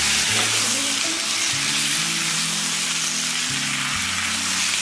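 Cluster beans and potato frying in green masala in a steel kadhai, sizzling steadily while a wooden spatula stirs them. Soft background music plays underneath.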